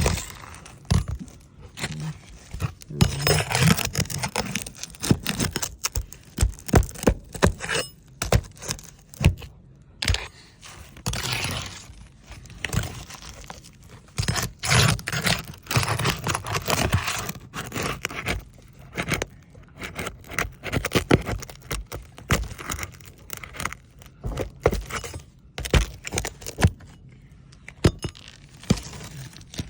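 A metal roofing snake scraping and knocking under roof shingles as it is worked in to catch and pull the shingle nails, with irregular sharp knocks and clicks between stretches of rasping scrape.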